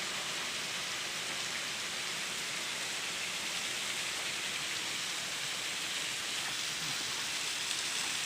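Steady rushing hiss of a waterfall, falling water that sounds like rain.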